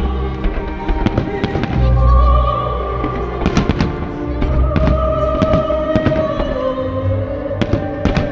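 Fireworks bursting: a dense run of sharp cracks with deep booms every couple of seconds, over loud music with a long held note.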